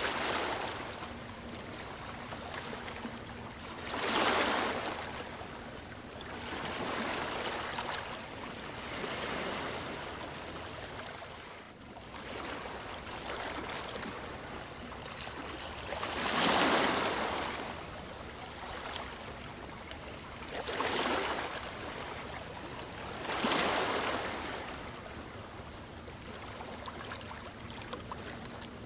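Ocean waves washing in: a steady hiss of surf with louder breaks every few seconds, one about four seconds in, the biggest around the middle, then two more close together later on.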